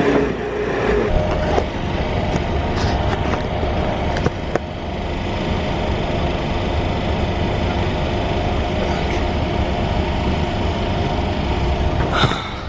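Steady running noise of an Indian sleeper train, heard from inside the carriage, with a few light clicks and knocks and a brief louder noise near the end.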